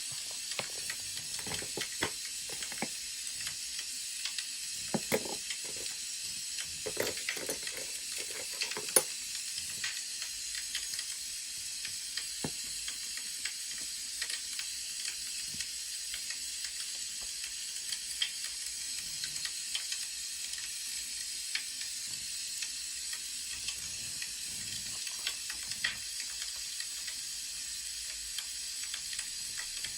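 Wood fire crackling: a steady hiss with scattered sharp pops and snaps throughout. A few duller, lower sounds come about five to nine seconds in.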